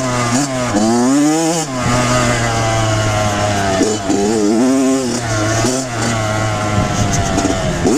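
Two-stroke dirt bike engine, a Kawasaki KX100, revving up and down several times and then running at a steadier pitch for a few seconds before revving again near the end.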